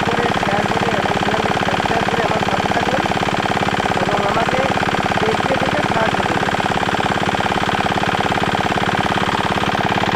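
Small 170-type single-cylinder diesel engine running steadily at an even speed, its firing beat rapid and regular.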